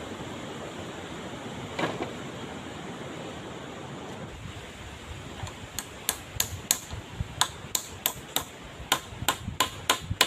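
Rapid run of sharp hammer strikes, about three a second, starting about halfway in over a steady background hiss, with one duller thump earlier.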